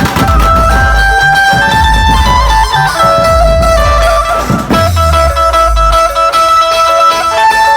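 Loud dhumal band music: an electronic keyboard plays a melody in held, stepping notes over heavy drums and bass. The low drum and bass part drops away about six seconds in.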